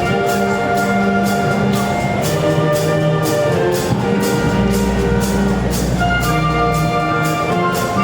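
Brass band playing held horn chords over a steady percussion beat, with a deep low swell around the middle.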